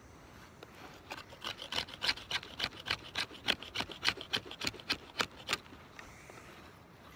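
Pocket knife blade scraping and shaving a piece of dry wood while shaping a fireboard: a quick, even run of strokes, about four a second, that starts about a second in and stops before six seconds.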